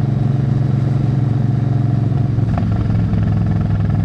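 Suzuki Intruder 800 V-twin motorcycle engine running steadily while riding, heard through a mix of helmet audio and a recorder near the exhaust. About two and a half seconds in, the engine note drops a little and there is a short click.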